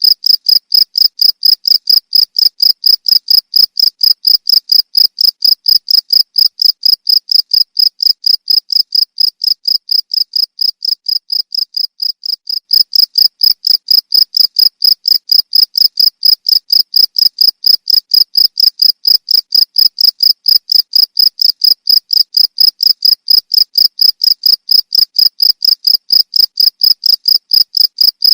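Cricket chirping in a fast, even, unbroken train of high-pitched pulses. It softens for a few seconds around the middle, then returns abruptly to full strength.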